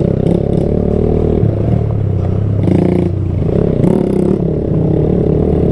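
Small 125 cc single-cylinder mini bike engine running on a bumpy trail, its pitch rising and falling as the throttle is opened and eased off. Two short rattles from the bike come about three and four seconds in.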